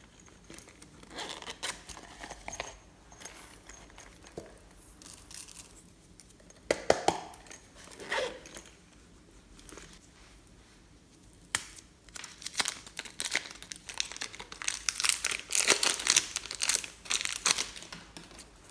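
Irregular crinkling and crackling from something being handled, heaviest in a dense run of crackles over the last several seconds.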